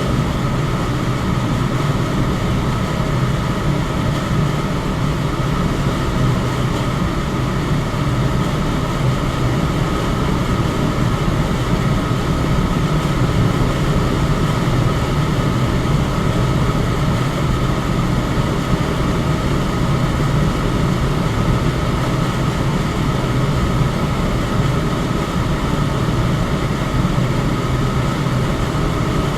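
Electric fan running steadily: a constant, unchanging whoosh of moving air, heaviest in the low range, with a faint steady hum riding on it.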